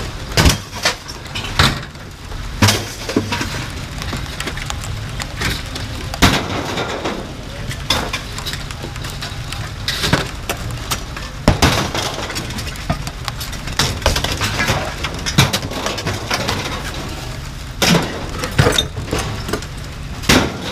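Pieces of scrap metal being thrown onto a pile, clanging and clattering at irregular intervals over a steady low rumble.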